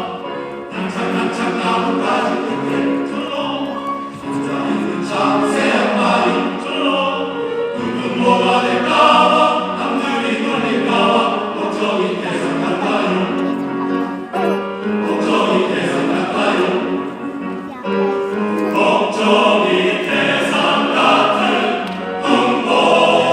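Men's choir singing a choral piece in sustained phrases, with short breaths between phrases.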